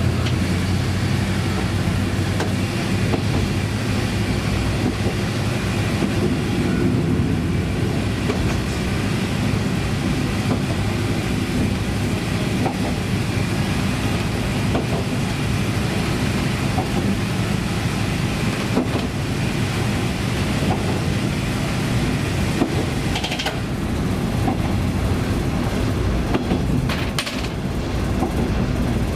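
KiHa 20-series diesel railcar under way, heard on board: its DMH17 diesel engine running steadily, with the wheels clicking over rail joints, several clicks near the end.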